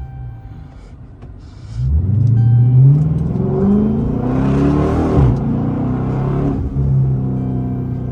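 A car engine revs up, climbing in pitch for about three seconds, then drops off suddenly and settles into a steady run.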